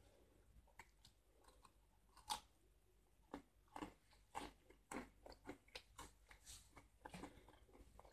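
A person chewing and biting a crunchy sesame snack close to the microphone: quiet, irregular crunches, the loudest about two seconds in.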